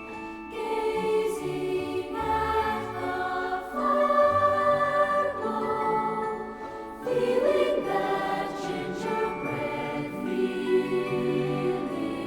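Christmas music sung by a choir: sustained chords that shift every second or two.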